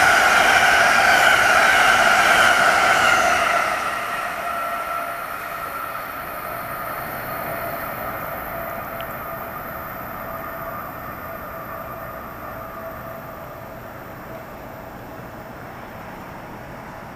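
Amtrak Northeast Regional passenger train's stainless-steel coaches rushing past at speed. About three and a half seconds in the sound drops as the last car clears, then fades steadily as the train runs away down the line, with a steady high ringing tone trailing off with it.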